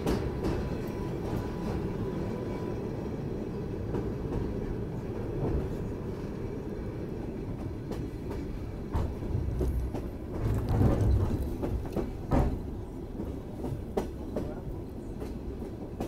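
Railway carriage running along the track, heard from aboard the moving train: a steady low rumble of wheels on rails with scattered clicks, and a few louder low bumps from about ten seconds in.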